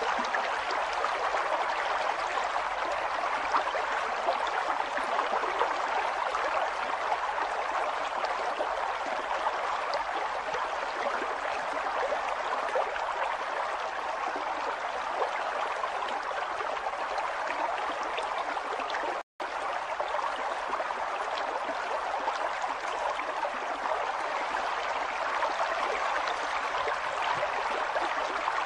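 River water running and gurgling steadily over its bed, with a split-second dropout about two-thirds of the way through.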